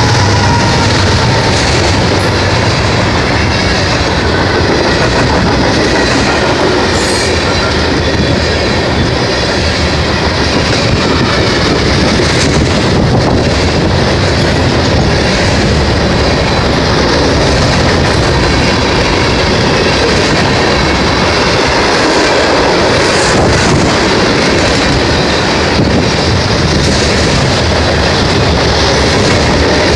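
CSX freight train's cars rolling past at speed: steady loud noise of steel wheels running on the rails. The locomotives' low engine hum fades out at the start.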